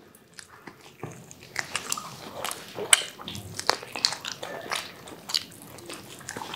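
Close-miked chewing of fried, breaded food: short, irregular clicks of a mouth biting and chewing, beginning about a second in.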